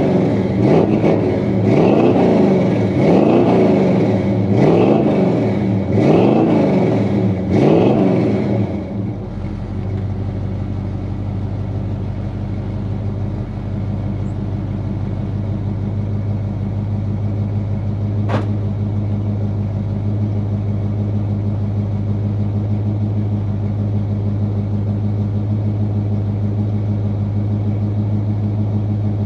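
1981 GMC C10's 350 small-block Chevy V8, breathing through long-tube headers and Thrush welded mufflers, blipped repeatedly with the throttle, about once every second and a half. It then settles into a steady idle while warming up after a cold start.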